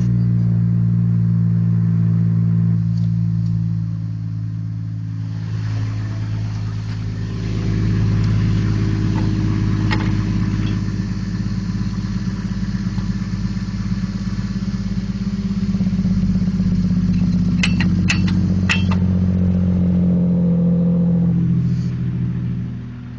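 Chevrolet Trailblazer engine running just after starting, with its note dropping about three seconds in and picking up again around six seconds. A few sharp clicks come around eighteen seconds, and the engine note falls away near the end.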